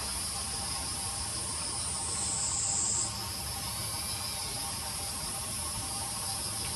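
Steady high-pitched drone of an insect chorus, with one nearer insect buzzing louder for about a second, starting about two seconds in and cutting off suddenly.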